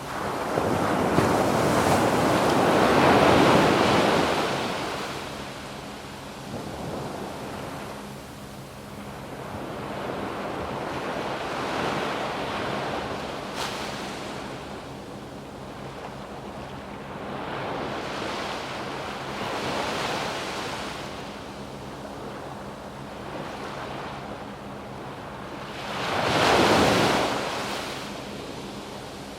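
Waves breaking on a sandy beach, the surf rising and falling, with a large wave washing in at the start and another near the end. Some wind noise on the microphone.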